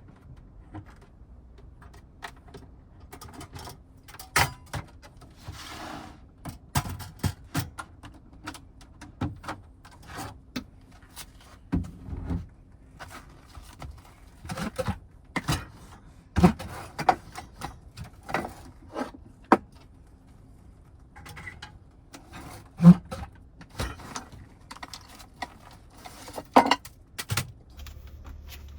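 Irregular clicks, knocks and light scrapes of small objects being handled and set down, with a faint steady hum underneath.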